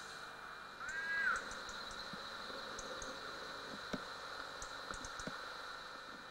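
A bird calls once, a single short note that rises and falls, about a second in, over a steady background hiss. A faint knock comes about four seconds in.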